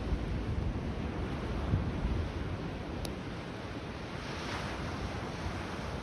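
Sea waves breaking and washing on a beach, with a swell of surf a little past halfway and gusty wind rumbling on the microphone in the first half. A single sharp pop from the wood fire about halfway through.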